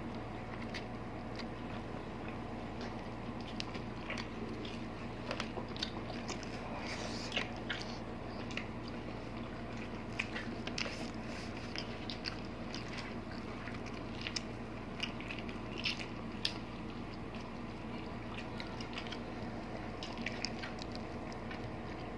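Chewing and lip smacking of people eating braised pork hock (pata tim) and rice by hand, with many short, irregular wet mouth clicks over a faint steady hum.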